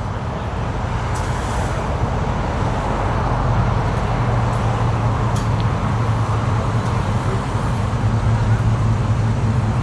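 A car engine running steadily, a low, even tone that grows a little louder a few seconds in.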